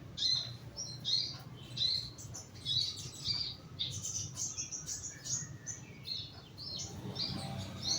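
Young sogon (crested jay) chirping over and over, about two short high chirps a second, over a steady low hum.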